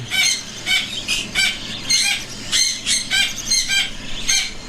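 Hand-fed cockatiel chicks begging with a chorus of harsh, rasping calls, about three a second, asking for food.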